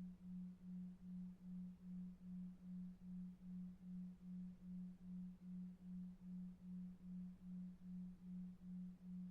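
A low pure tone pulsing evenly on and off about two and a half times a second, a 2.5 Hz delta-wave pulse, over faint brown noise.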